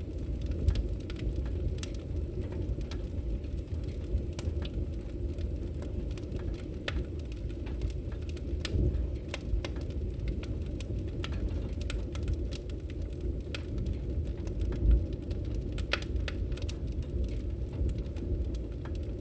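Fireplace wood fire crackling, scattered sharp pops and snaps over a steady low rumble, with one louder pop near the end.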